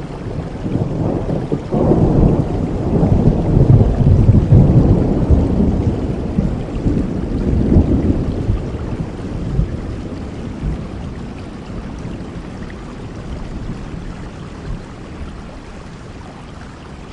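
Steady rain falling, with a long, low rumble of thunder that breaks in about two seconds in, swells, and slowly fades away over the next ten seconds.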